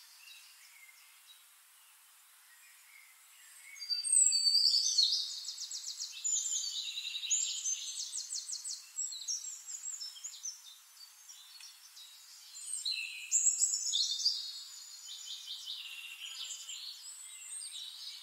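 Birds singing in bursts of rapid trilling chirps over faint hiss, starting about four seconds in and loudest then and again about thirteen seconds in.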